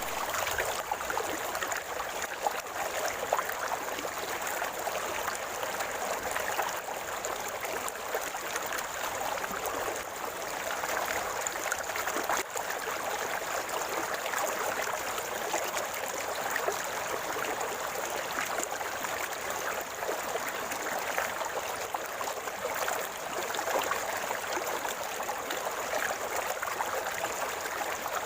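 River water gurgling in a steady, unbroken flow.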